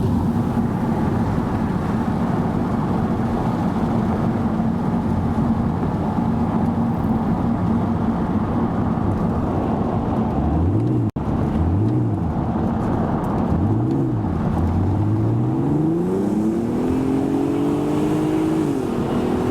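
Audi TT's 3.2-litre V6 through a Magnaflow exhaust, heard from inside the car while driving. It holds a steady drone for about ten seconds, then rises and falls in pitch three times in quick succession. It then pulls hard, its note climbing steadily for a few seconds before dropping off near the end.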